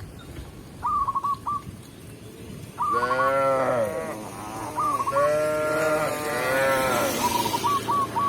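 Cow mooing twice in long, arching calls, the second longer. Short bursts of quick, high bird calls come between the moos.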